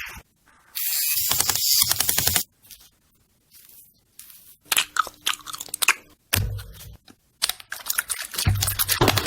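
Close-up ASMR sounds of skincare and makeup products being handled: a hissing stretch, then bursts of crisp clicks, crackles and rubbing with a few low thuds.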